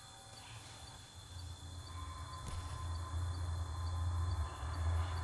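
Night-time rainforest insect chorus: a steady high buzzing with regular faint pulses. A low hum swells in underneath from about a second and a half in.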